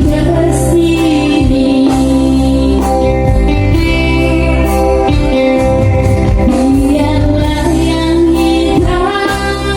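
A woman singing a song with long held notes that slide between pitches, over instrumental accompaniment with a steady bass.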